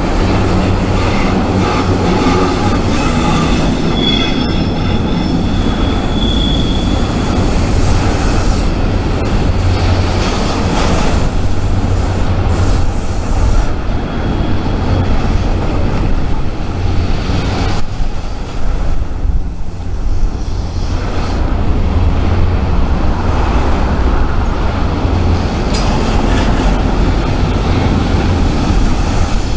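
A freight train rolling by on the rails with steady heavy rumble and wheel noise. A high wheel squeal comes in from about four to seven seconds in.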